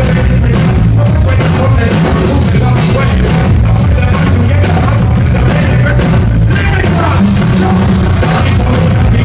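Live band music played loud through a PA, heavy on the bass with a steady beat; ska- and rock-styled dance music with a little singing.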